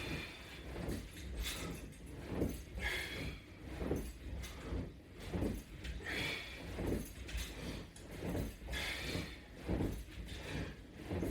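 A person breathing hard in a steady rhythm while doing repeated abdominal crunches against resistance straps, a forceful exhale about every one and a half seconds, with light clinks from the strap hardware.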